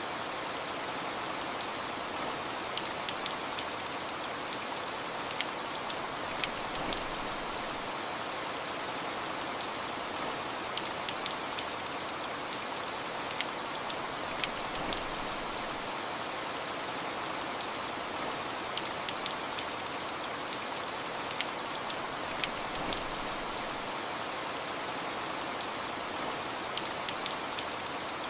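Steady rain falling, a constant hiss with scattered sharp drop ticks above it.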